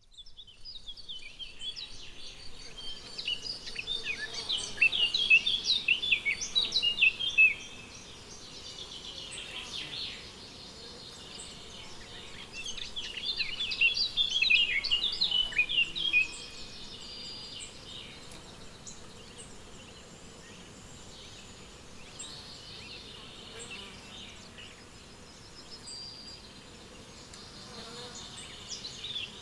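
Songbirds singing in two long outbursts of rapid, varied, up-and-down notes, one in the first seven seconds and another about halfway through. Between them a quieter, steady high chirring of meadow insects such as crickets carries on, with scattered faint bird calls.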